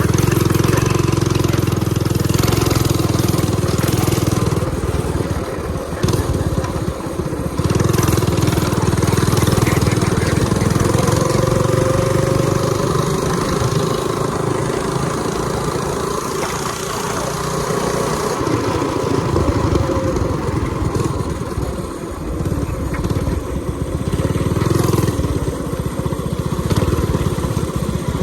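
Minibike's 196cc single-cylinder four-stroke engine with an open header pipe, ridden and revving up and down repeatedly as the throttle opens and closes. The governor is deleted, so it revs freely.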